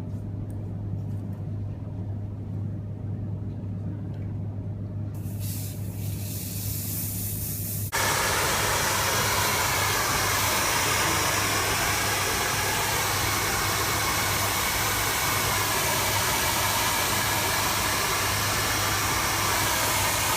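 A hair dryer switches on suddenly about eight seconds in and blows with a steady, loud rushing hiss. Before that there is only a low steady hum with a few faint clicks.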